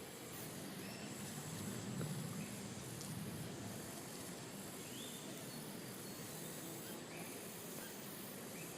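Outdoor ambience: a steady high-pitched insect chirring with a few short, faint bird chirps. A low rumble comes and goes between about one and a half and three and a half seconds in.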